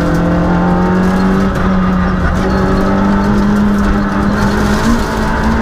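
Citroën Saxo Group A6 rally car's 1.6-litre four-cylinder engine heard from inside the cabin, pulling hard at high revs with its pitch climbing slowly. The engine note breaks briefly about a second and a half in and again near the end, over a steady low rumble.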